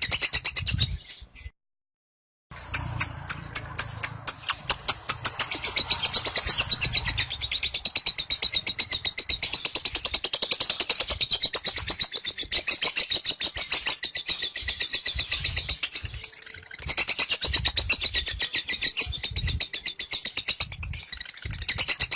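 Lovebird 'ngekek': a long unbroken rapid chattering trill of high repeated notes, the sustained song that lovebird contests prize. It breaks off for about a second early on, then resumes and runs on.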